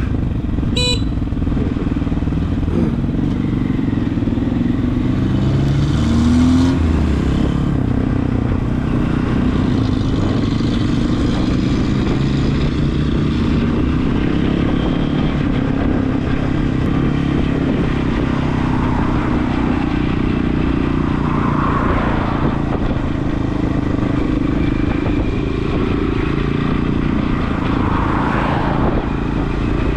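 Regulmoto TE enduro motorcycle's engine running steadily while riding, with a brief rise in engine speed about six seconds in.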